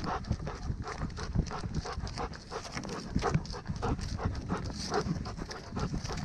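A dog on the move: quick, rhythmic footfalls with panting, picked up close by a camera worn on the dog.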